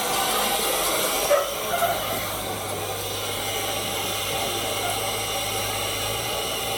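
Steady hiss and hum of the Ty42 steam locomotive standing in steam, with two short knocks about a second and a half in.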